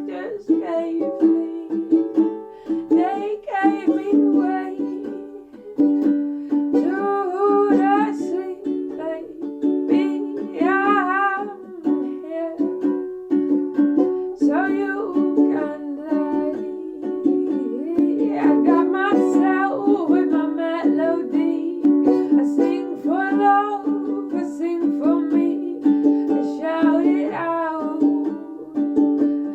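Ukulele playing with a voice singing over it in phrases every few seconds.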